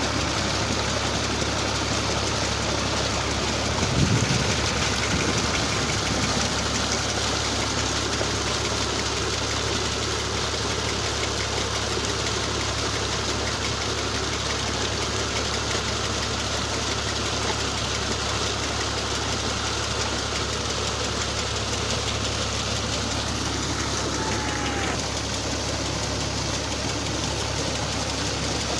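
A New Holland Ghazi tractor's diesel engine runs steadily, driving a tubewell pump through a shaft. There is a brief louder surge about four seconds in.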